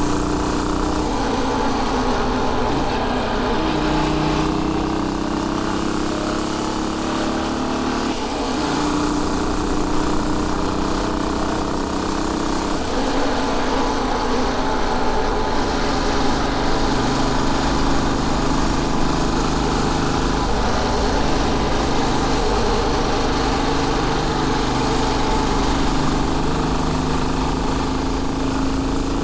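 Royal Enfield Bullet 500's air-cooled four-stroke single-cylinder engine running on the move, its pitch rising and falling several times with throttle and gear changes.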